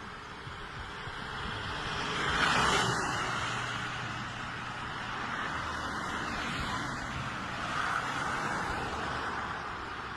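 Road vehicles passing: a steady noise swells and fades twice, loudest about two and a half seconds in and again near eight seconds, with a faint engine hum between.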